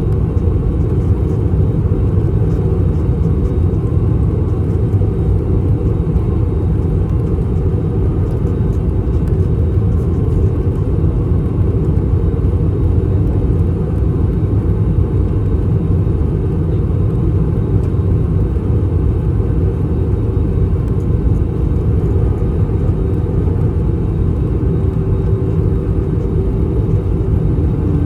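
Steady low cabin rumble inside an Airbus A321 during descent: airflow noise and its IAE V2533-A5 turbofan engines. A faint hum joins near the end.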